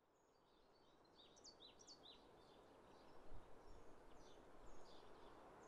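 Faint outdoor ambience fading in from silence, with songbirds giving a string of short, high chirps, several of them sliding down in pitch.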